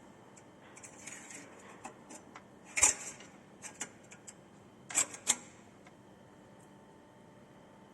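A few sharp clicks and light knocks with some rustling about a second in. The loudest click comes near three seconds, followed by a close pair of clicks around five seconds and scattered smaller ticks.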